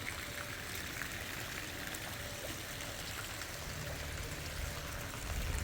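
Steady hiss of heavy rain with water running and pouring, scattered with small drop ticks; a low rumble joins it a little past halfway.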